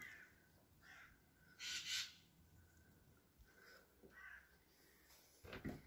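Faint bird calls, several short ones, with a louder rushing noise about two seconds in and a few low thumps near the end.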